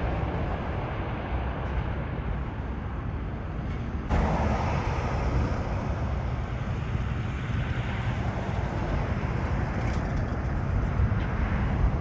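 Steady low rumble of a Boeing 737 MAX 8 on the runway after landing, with its jet engines and wind noise mixed in. About four seconds in it suddenly gets louder and brighter.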